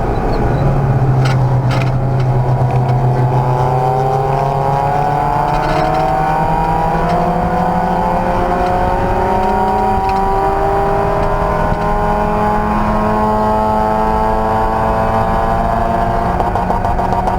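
Race car engine under load, its pitch climbing slowly and steadily as the car accelerates, with a brief change in the note about ten seconds in.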